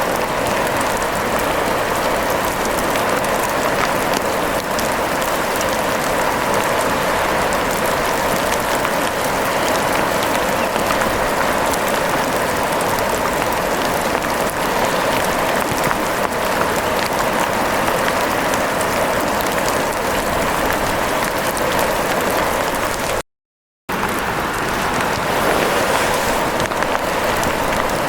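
Steady rain falling, a dense, even patter with no change in strength. It cuts out completely for about half a second near the end, then resumes.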